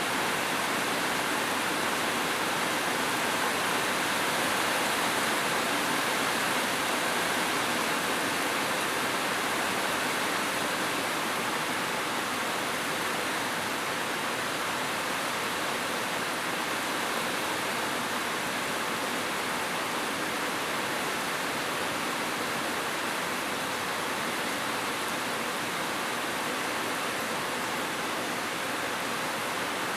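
Rain falling steadily, an even unbroken hiss with no single drops or gusts standing out.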